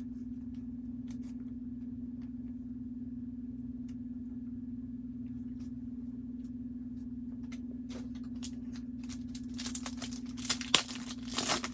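A trading-card pack wrapper being torn open and crinkled, with cards handled, in a couple of seconds of sharp crackling near the end. Before that only faint scattered ticks of card handling over a steady low electrical hum.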